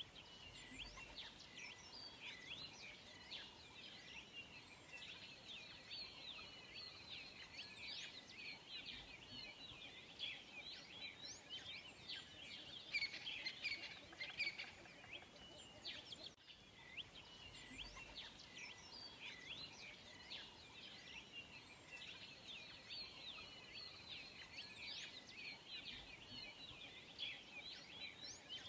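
Faint chorus of many small birds chirping and twittering, with quick short calls overlapping throughout over a light background hiss.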